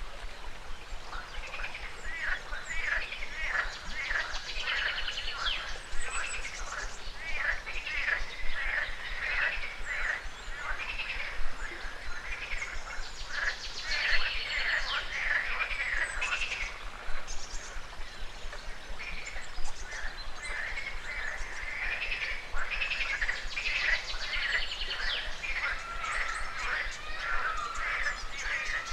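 A chorus of frogs and birds calling: many short, overlapping calls repeating without a break.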